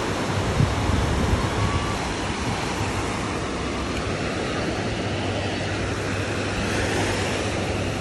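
Ocean surf washing on the shore, a steady rushing noise.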